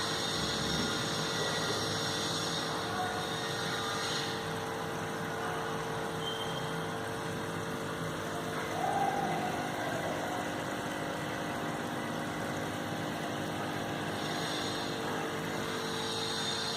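Aquarium pump running with a steady hum and a constant tone, a higher hiss joining in for the first few seconds and again near the end.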